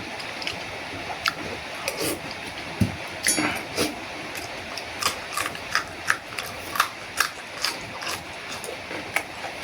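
A person eating into a close microphone: a run of short wet chewing clicks and smacks, about two a second, with no talking.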